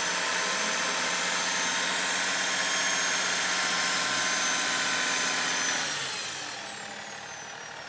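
Off-road 4x4's engine held at steady high revs with a high whine, then the revs falling away about six seconds in as the throttle comes off.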